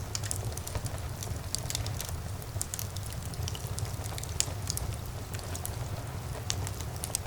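Wood fire burning in a fireplace, with many irregular sharp crackles and pops over a steady low rumble of the flames; one pop about four seconds in is louder than the rest.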